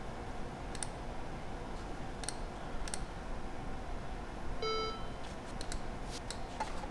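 Sharp computer mouse button clicks, several single and a few in quick pairs, with a short pitched beep from the Macintosh LC475's speaker about two-thirds of the way through. A steady low hum runs underneath.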